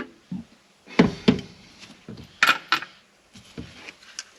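A few short knocks and clinks of hand tools and metal parts being handled on the engine, in two pairs: one about a second in and a sharper, brighter pair about halfway through.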